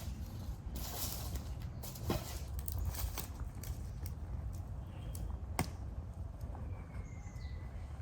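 Dry leaves and twigs on a forest floor crunching and snapping, with scattered sharp cracks over a steady low rumble. A faint high whistling call comes in near the end.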